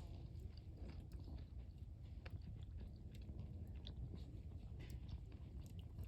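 Wood fire crackling, with scattered small pops and snaps over a low rumble.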